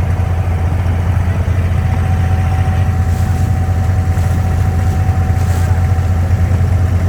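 Engine of a Dubai Creek abra (wooden water taxi) running with a steady low drone while under way. A thin steady whine rides on top for a few seconds in the middle.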